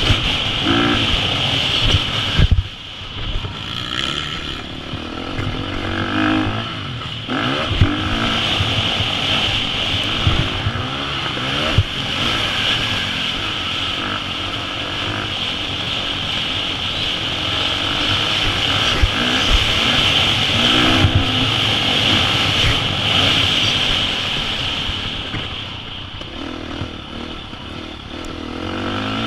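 KTM 350 SX-F single-cylinder four-stroke dirt bike engine revving up and down as it is ridden around a motocross track, with rushing wind noise and low thumps. The throttle shuts briefly about two and a half seconds in, and again for a couple of seconds near the end.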